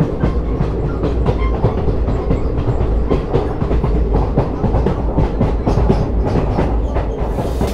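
Train running along the track, heard aboard: wheels clattering over rail joints in quick irregular clicks over a steady low rumble.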